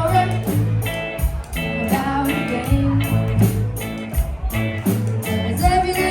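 A student band playing a live cover of a reggae song, with sung vocals over electric guitar, bass and drums keeping a steady beat.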